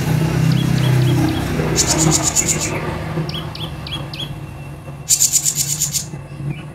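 A kolibri ninja sunbird singing: two bursts of a rapid, high, buzzy trill, about two seconds and about five seconds in, with short sharp chip notes between them. A low steady hum runs underneath.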